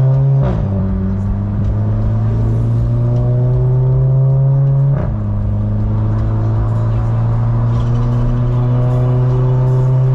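Motorcycle engine pulling hard under acceleration, its pitch climbing steadily. It drops back briefly at two gear shifts, about half a second in and again about five seconds in.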